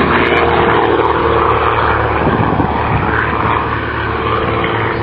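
Propeller-driven light aerobatic aircraft flying a display, a steady piston-engine drone with a dense rush of noise over it.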